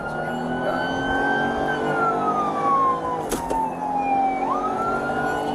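Emergency vehicle siren wailing: its pitch climbs slowly, sinks over a couple of seconds, then swoops back up near the end.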